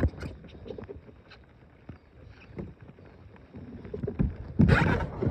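Knocks and bumps on a small boat as people move about in it and handle gear and a paddle, with a louder rush of noise about four and a half seconds in.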